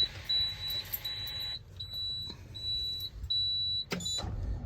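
A vehicle's electronic warning beeper sounding a steady series of high-pitched beeps, each about half a second long and about three-quarters of a second apart. The beeps stop about four seconds in with a sharp click.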